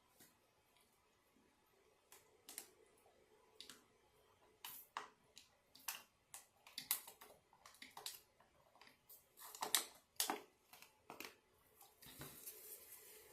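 Light, irregular clicks and taps of hands handling food and kitchen items, then a steady hiss that starts near the end.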